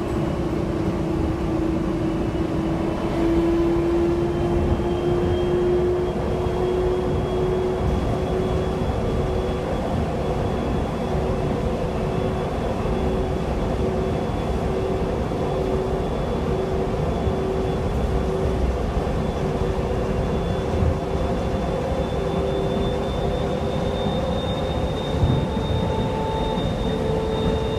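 Moving PHX Sky Train car (a Bombardier Innovia APM 200 automated people mover) heard from inside: a steady running rumble with a drive whine that rises slowly in pitch and a faint high tone above it.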